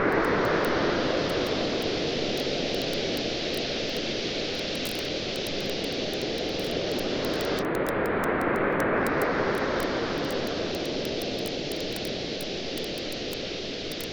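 Ocean waves washing in and drawing back on a beach, swelling twice about eight seconds apart, with a campfire crackling in quick scattered pops over them.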